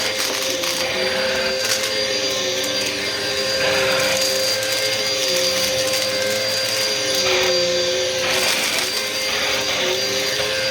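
Bissell vacuum cleaner running steadily, its motor giving a constant whine with a second, lower tone that wavers up and down beneath it over a rushing air noise.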